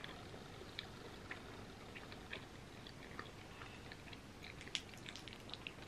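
Close-miked chewing of a mouthful of vegan macaroni and cheese: faint, soft mouth clicks scattered throughout, coming more often near the end.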